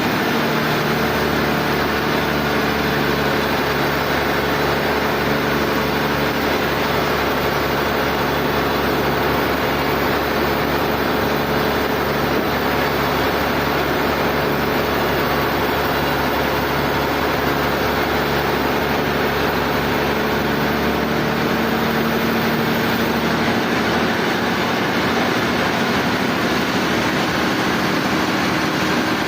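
Sawmill machinery running steadily, with a constant engine-like hum and even noise; its tone shifts slightly about two-thirds of the way through.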